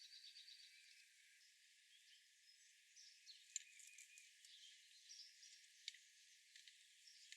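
Faint small-bird chirps and calls, with a quick trill at the start and a few sharp ticks, the loudest about three and a half seconds in.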